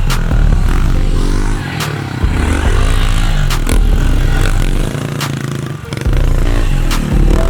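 Pit bike engine revving up and down over and over, as on a dirt jump line, with a few sharp knocks.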